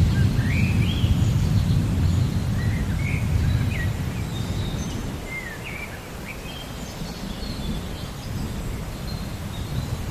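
Thunder rumbling and dying away over the first half, with a steady rain hiss and many birds chirping in short rising and falling calls throughout.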